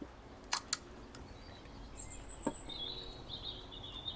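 Two sharp clicks close together, a lighter click a little later, and faint high-pitched bird chirping in the background over the second half.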